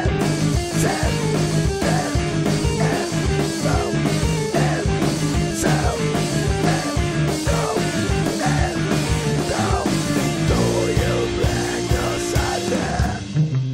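A rock band playing a loud, driving song with guitar and drum kit, with steady drum hits and one note held for about two seconds near the end.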